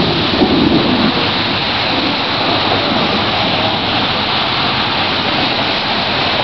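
Heavy rain falling steadily, with a low thunder rumble dying away in the first second or so.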